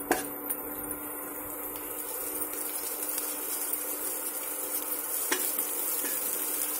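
Rinsed poha (flattened rice) frying in ghee in an aluminium saucepan, sizzling steadily and growing a little louder as a steel spoon stirs it. The spoon clinks against the pan at the start and again about five seconds in.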